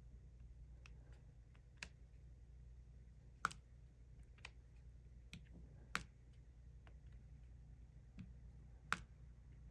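Irregular small clicks and taps of a diamond-painting drill pen setting resin drills onto the sticky canvas, three of them louder and spread a few seconds apart, over a low steady room hum.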